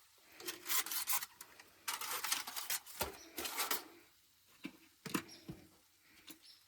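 Cookware being handled at a camp stove: several short bursts of scraping and rustling in the first four seconds, with a couple of sharp knocks, then quieter handling.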